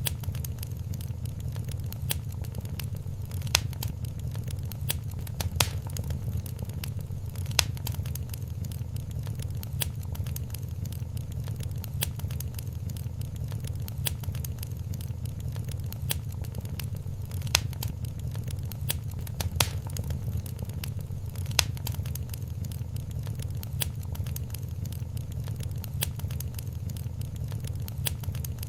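Wood fire crackling in a fireplace: a steady low rumble under constant small crackles, with a louder sharp pop every few seconds.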